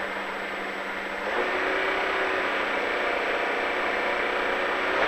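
Rally car engine, heard from inside the cabin, idling at a standstill, then brought up to higher revs about a second in and held steady.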